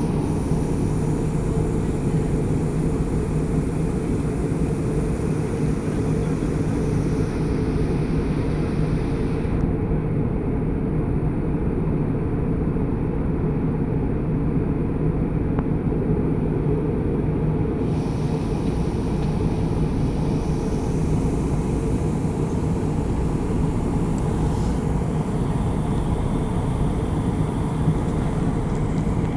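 Steady airliner cabin noise in flight: an even low rush of air and engine drone with a constant low hum, heard from inside the cabin.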